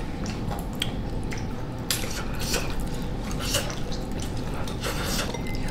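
Wet mouth clicks and smacks of someone chewing a hot quail egg from a hotpot, irregular and close up, over a steady low room hum.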